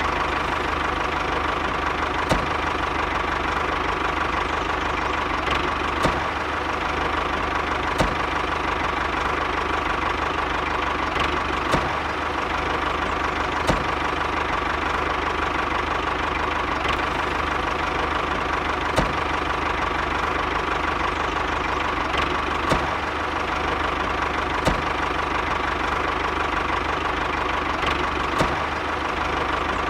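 Mini tractor's motor running steadily under a steady mechanical hum, with a sharp click every couple of seconds.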